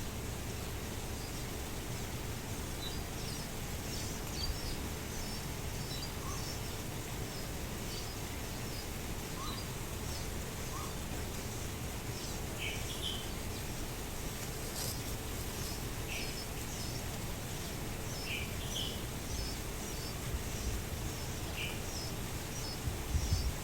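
Birds chirping outdoors: many short, high chirps scattered all through, with a few lower short notes now and then, over a steady low background rumble.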